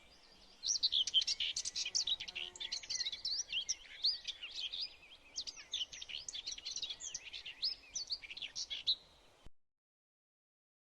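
Birds chirping: a dense run of quick chirps and short whistles, overlapping, starting about a second in and cutting off suddenly near the end.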